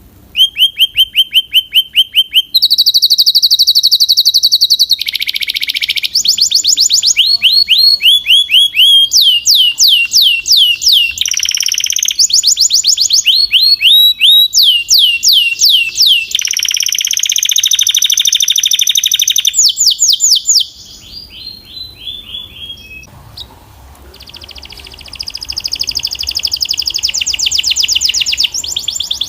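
Belgian canary singing: fast trills of rapidly repeated high notes, switching to a new phrase every second or two. About two-thirds of the way through there is a softer, quieter passage, then the loud trilling resumes.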